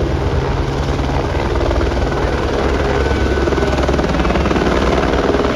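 Helicopter running close by: the engine and rotor make a loud, steady noise with a rapid, even beat from the blades.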